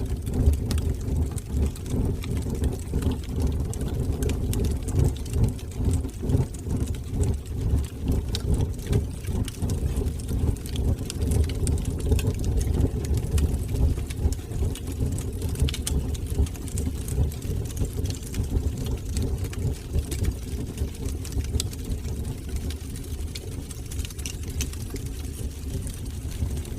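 Fire burning in a fireplace: a steady low, fluttering rumble with many small scattered crackles.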